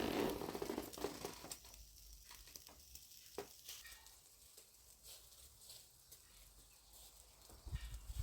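Faint crackling and sizzling from a lit wood-burning stove, with scattered sharp clicks and a brief louder rustle at the start.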